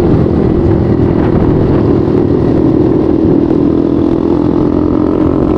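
Motorcycle engine running steadily at cruising speed, with road and wind noise; the engine pitch rises slightly near the end.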